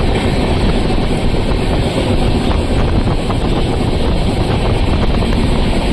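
Passenger train running: a steady loud rumble of wheels on the rails and rushing air through an open barred window, with faint scattered clicks.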